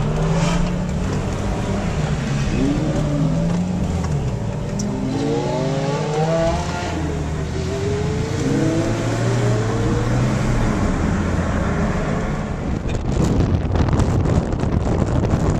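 Sports car engines running on the road, with a run of rising engine notes from about five to eight seconds in as cars accelerate through the gears. A louder rushing noise comes in near the end.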